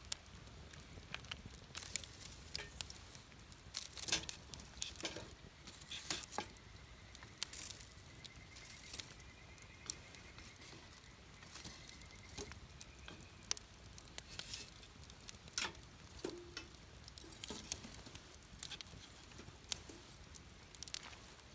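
Wood campfire burning, crackling with irregular sharp pops and snaps over a soft hiss. A faint, slightly wavering high tone sounds for a few seconds in the middle.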